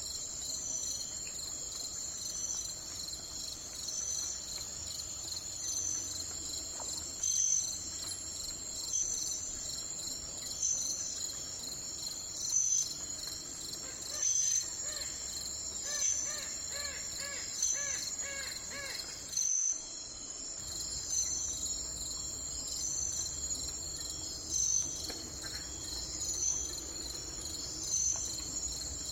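A steady, high-pitched insect chorus of crickets, pulsing about every second and a half. Midway a bird gives a quick run of repeated chirping notes, and the sound cuts out for an instant about two-thirds of the way through.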